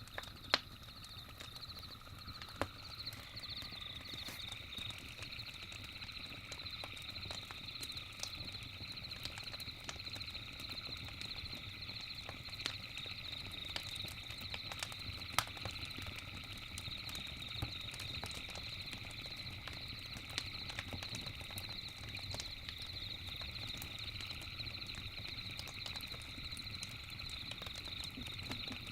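Campfire crackling with scattered sharp pops, a few louder than the rest, over a steady high chirring of night insects, with a second, lower chirring voice joining a few seconds in.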